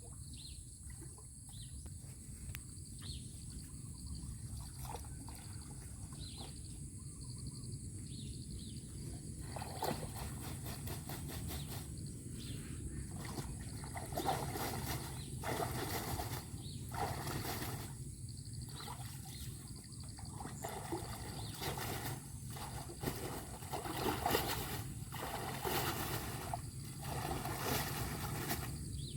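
Stream water trickling and sloshing over a steady low rush. From about ten seconds in there are irregular splashes.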